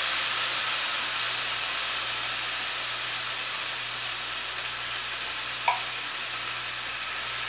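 Shredded chicken and tomato juice sizzling steadily in a hot pan as the diced tomatoes are stirred in, the hiss easing off slightly as the juice cools the pan. A single light click comes a little past two-thirds of the way through.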